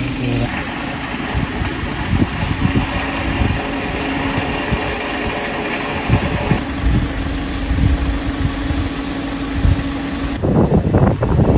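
A machine running with a steady hum under irregular knocks and clatter. The sound changes abruptly twice, becoming a louder rumbling near the end.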